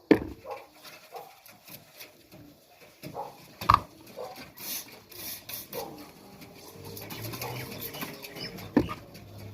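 Domestic pigeons cooing softly, with a few sharp knocks, the loudest a little under four seconds in and another near the end.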